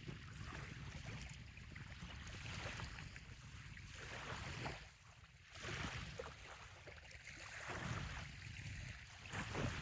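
Small waves lapping and washing on a sandy bay shore, coming in swells of hiss every second or two, over a steady low rumble of wind on the microphone.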